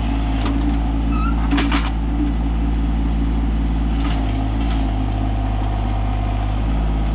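RK24 compact tractor's diesel engine running steadily under hydraulic load as the backhoe bucket pushes against the ground to scoot the tractor sideways. Its note shifts from about four seconds in until near the end, with a few faint knocks.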